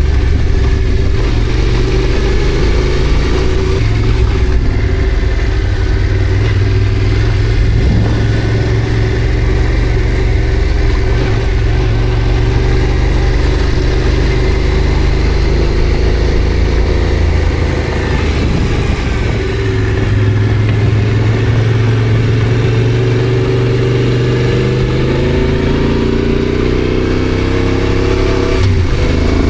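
Yamaha Ténéré adventure motorcycle engine running under way, mostly holding a steady pitch. Near the end the engine revs rise, break off with a gear change, and climb again.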